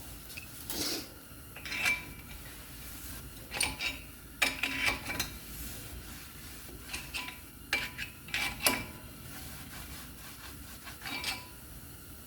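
Irregular metallic clinks, taps and rubbing from brake hardware and hand tools being handled at the wheel, some clinks ringing briefly.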